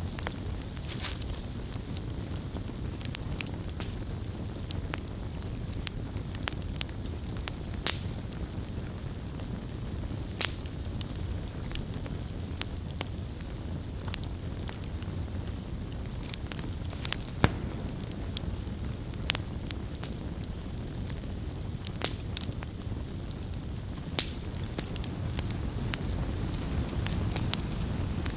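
Wood campfire burning with a steady low rush and irregular sharp crackles and pops, several a second, some louder snaps scattered throughout.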